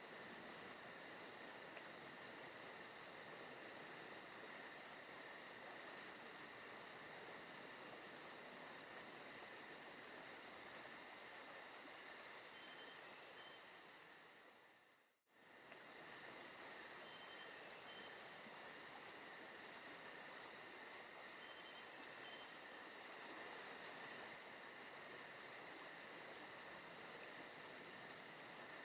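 Faint forest ambience of crickets and other insects chirring steadily, with a fast high trill over it. About halfway through it fades briefly to silence and comes straight back.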